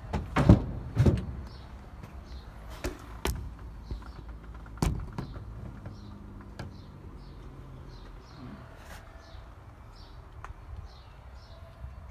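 A handful of sharp knocks and bumps, the loudest about half a second and a second in, then sparser and fainter ones over the next several seconds. Behind them a bird gives a short high chirp over and over, about two a second.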